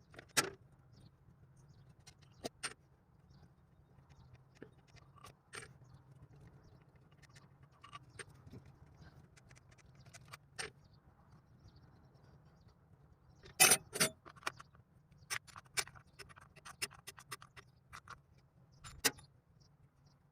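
Metal tools and parts clinking and tapping at irregular intervals, with a cluster of sharper knocks about two-thirds of the way through.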